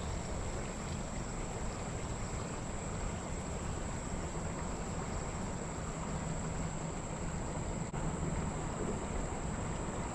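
Steady outdoor background noise with a constant thin high tone.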